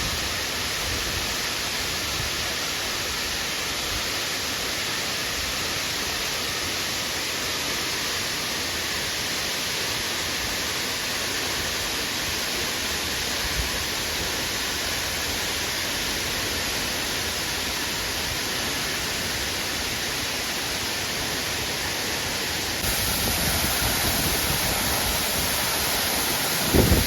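Waterfall making a steady rush of falling water, a little louder from about 23 seconds in. A brief low thump near the end.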